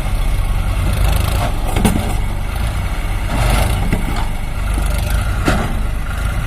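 Heavy diesel engine running steadily at low revs, with a few brief knocks over it.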